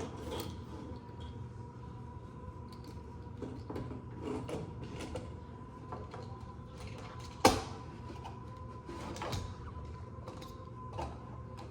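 Small plastic toy monster trucks being handled on a table: scattered light clicks and knocks, with one sharper knock about seven and a half seconds in, over a faint steady hum.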